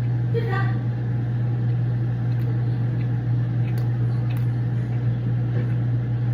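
A steady low hum, with a short murmur of voice about half a second in and a few faint clicks.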